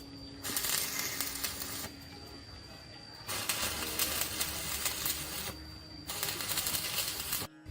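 Three bursts of rapid metallic clattering, each one to two seconds long, with quieter stretches between them.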